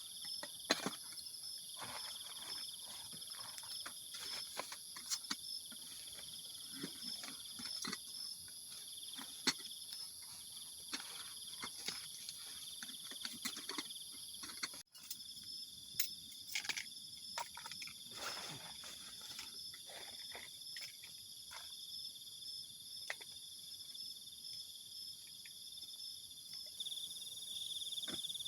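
Crickets chirring in a steady high-pitched chorus over the irregular pops and crackles of a campfire. The cricket chorus grows louder near the end.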